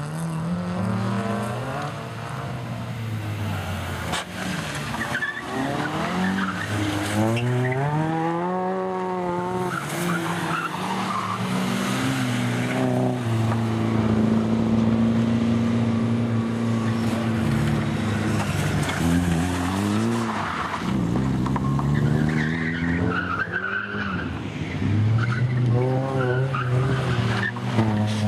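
Racing car engine revving hard as it laps the course, its pitch climbing and dropping over and over as it accelerates and lifts off.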